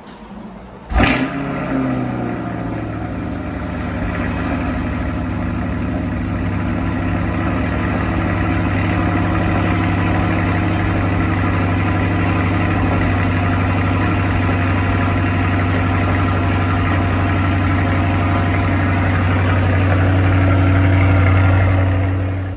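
2020 C8 Corvette's 6.2-litre LT2 V8 starting from cold: it catches about a second in with a loud flare of revs, then settles into a steady fast idle. The sound cuts off suddenly near the end.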